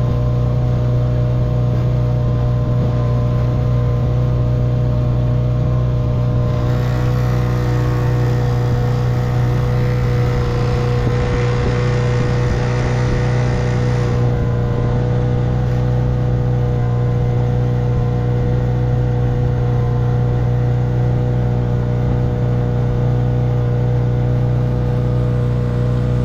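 1958 Evinrude 3 hp two-stroke outboard motor running steadily at constant speed. A brighter hiss joins it for several seconds about a quarter of the way in.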